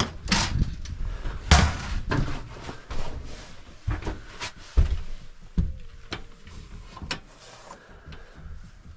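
Irregular knocks and thumps, a dozen or so, the loudest in the first half, over a low rumble, growing sparser and quieter toward the end.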